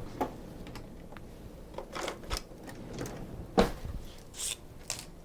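Kitchen knife cutting asparagus on a cutting board: irregular sharp taps, the loudest a knock about three and a half seconds in.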